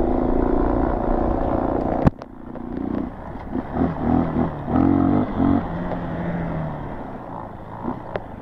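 Honda CRF dirt bike's single-cylinder four-stroke engine running under throttle on an off-road trail ride. A single sharp knock about two seconds in, then the throttle is blipped up and down several times before the engine settles lower and fades near the end.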